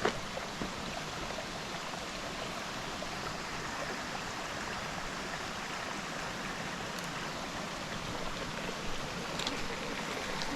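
Mountain stream's water rushing in a steady, even wash.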